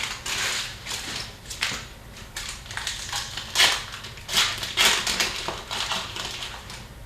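Foil wrapper of a hockey card pack being torn open and crinkled, a run of irregular crackling rustles.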